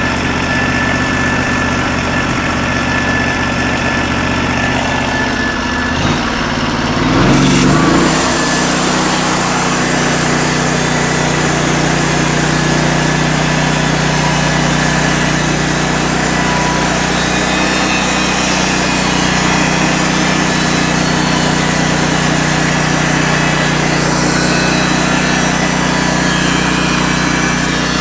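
Portable bandsaw mill's small gasoline engine idling, then throttled up about seven seconds in and held at a steady higher speed, with an added hiss from the running band saw.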